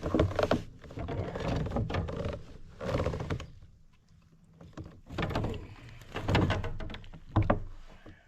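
Knocks, thumps and scraping on a fishing kayak's hull, in irregular bursts with a short lull about halfway through.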